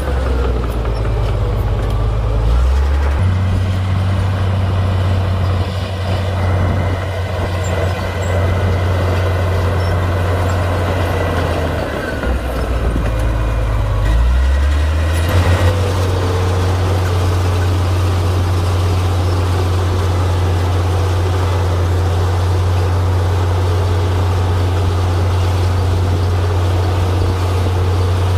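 Komatsu D58P swamp bulldozer's diesel engine running steadily under load as it pushes dirt. Its engine note dips about 12 seconds in and picks back up about 15 seconds in.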